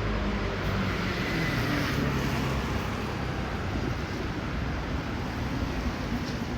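City street traffic on wet roads: a motor vehicle's engine hum fades at the start, then steady road noise with tyre hiss carries on.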